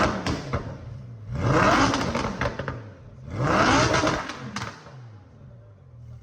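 Lamborghini engine with a newly swapped exhaust, revved in three quick blips that rise and fall in pitch, then settling back to a steady idle near the end.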